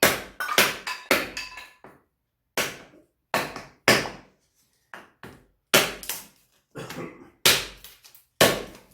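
Axe striking and splitting firewood into thin kindling sticks: a dozen or so sharp knocks at uneven spacing, some with a brief metallic ring, with a short pause about two seconds in.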